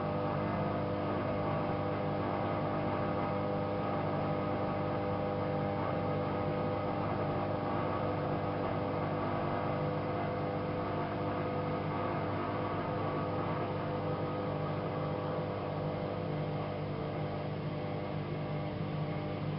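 AEG Lavamat 5210 washing machine running, a steady motor hum with several held tones that does not change through the stretch.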